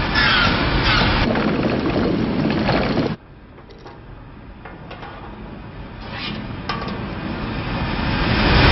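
Film sound effects: a dense, loud noise with short falling tones that cuts off suddenly about three seconds in, then a quieter sound that swells steadily back up.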